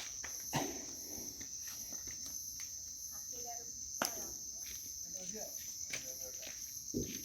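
A steady, high-pitched chorus of crickets chirping, with a few faint clicks, one clearer about four seconds in.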